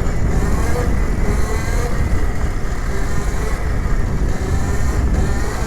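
Electric dirt bike riding along a trail: a steady low rumble of wind and tyre noise, with a faint high whine from the electric motor that rises and falls slightly.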